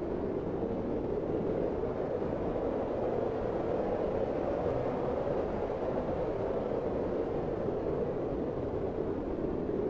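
Snowstorm wind blowing as a dense, steady rushing noise, with no distinct gusts or pauses.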